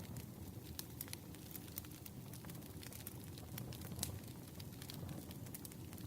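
Campfire crackling: a low steady rumble of burning wood with scattered sharp pops and snaps, a louder pop about four seconds in.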